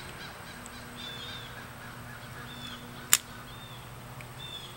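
A small bird chirping over and over in short falling calls, over a faint steady low hum. About three seconds in comes one sharp metallic click, the loudest sound, as a metal part of the airsoft gun is worked by hand.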